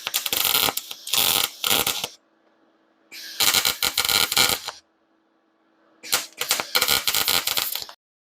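Welding arc crackling and spitting on thin steel in three short bursts of a second or two each, with stops between: stitch welding to keep from burning through the thin frame metal.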